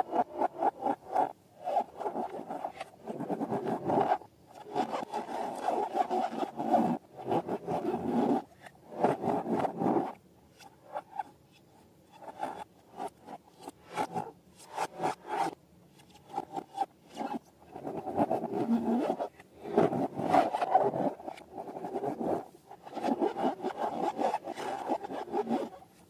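Slime-making handling sounds: bursts of quick, repeated rubbing and scraping strokes that start and stop, with a sparser stretch in the middle.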